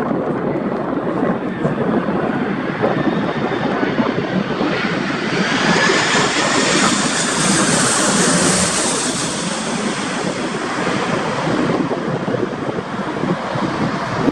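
Jet airliner passing on landing approach: its engine hiss swells to a peak about halfway through, with a faint falling whine, then fades. Gusty wind rumbles on the microphone throughout.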